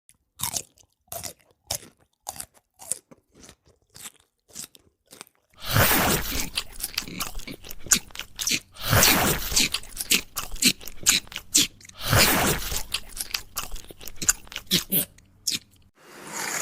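Crunchy food being bitten and chewed. For about the first five seconds it comes as separate crisp crunches; after that the crunching is dense and continuous.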